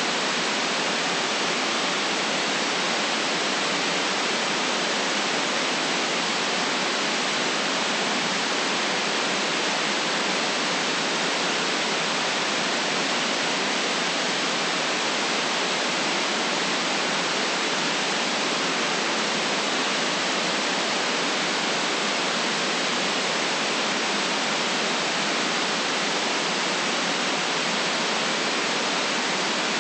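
Steady artificial white noise: a constant, even hiss with no rise, fall or separate sounds, its deepest bass and highest treble cut off.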